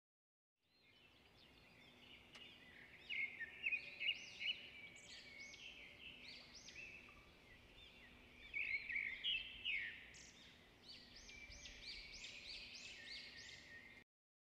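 Small birds chirping and singing in a busy chorus of quick, high, overlapping notes. The chorus starts about a second in and cuts off abruptly near the end.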